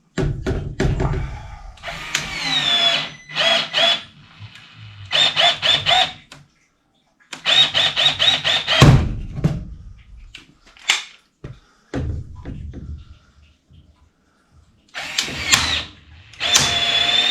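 Cordless power tool run in short trigger bursts, its motor whine starting and stopping again and again, sometimes in quick runs of four or five pulses, with a longer run near the end. Low clatter of metal parts is heard between the bursts.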